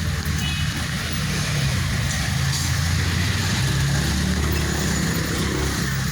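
Steady low rumble of a motor vehicle driving, engine drone with road noise.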